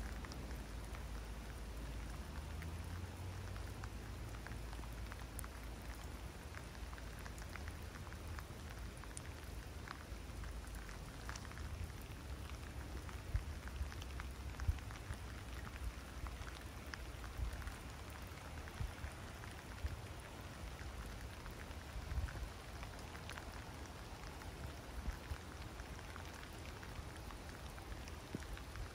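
Heavy rain falling steadily, with scattered louder drops ticking sharply now and then.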